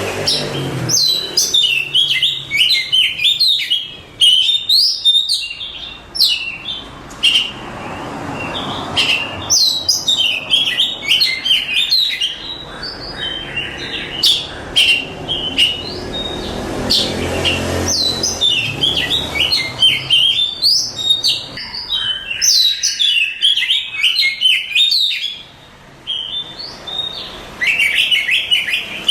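Oriental magpie-robin (kacer) singing: rapid, varied phrases of sweeping whistles and chirps, delivered in bursts with short breaks and one longer pause near the end.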